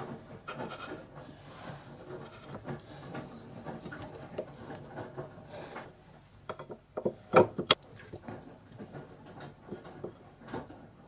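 Hand handling of small workshop tools and parts at the lathe, with rubbing and light knocks, and a quick run of sharp clicks about seven seconds in.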